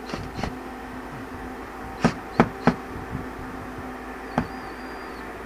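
Sharp knocks of hard plastic drain pipe fittings being handled and fitted: three in quick succession about two seconds in and one more later, over a faint steady hum.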